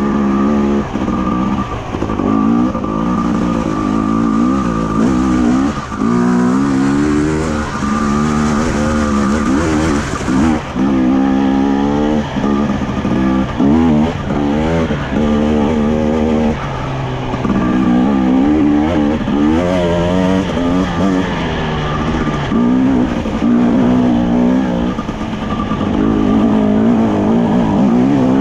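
Enduro motorcycle engine being ridden off-road, revving up and dropping back over and over as the throttle is worked.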